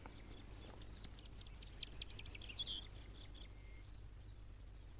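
Faint chirping of small birds: a quick run of short, high chirps lasting about three seconds, over a low steady background.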